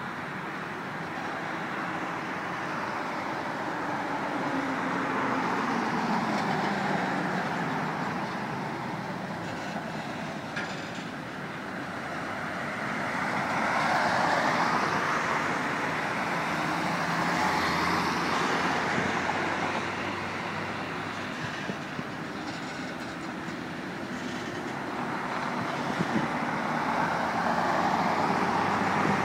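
Ballast hopper cars of a long freight train rolling past, a steady rumble and clatter of wheels on rail. Road cars passing close by swell over it, most clearly about halfway through and again near the end.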